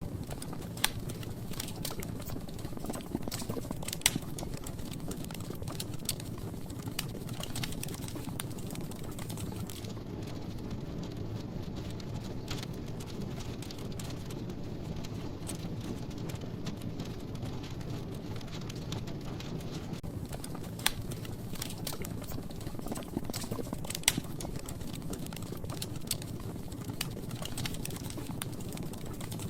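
Wood logs burning in a fireplace: a steady low rumble of flame with scattered sharp crackles and pops, a few of them louder, about a second in, at four seconds and twice past the twenty-second mark.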